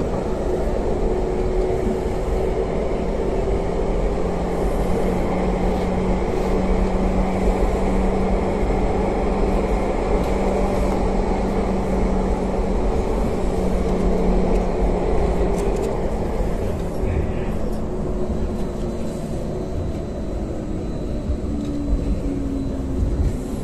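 Ankeng light rail train running, heard from inside the car: a steady rolling rumble with a humming motor tone. Near the end the tone slides down as the train slows.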